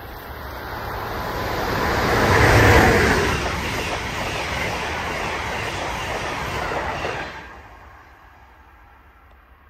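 A train passing by: its rushing noise swells to a peak about three seconds in, holds steady as the cars go by, and falls away quickly after about seven seconds.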